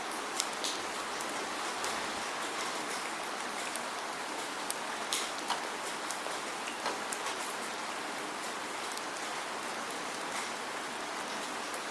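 Steady rain without thunder: an even hiss of falling rain with scattered close drops ticking sharply, more of them in the first half.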